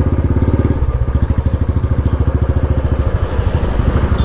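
Motorcycle engine idling, a steady, rapid, even pulsing.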